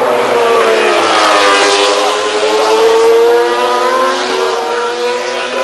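MotoGP racing motorcycles' 800cc four-stroke engines at full race speed, their pitch dropping, climbing again and then falling as the riders brake, shift and accelerate.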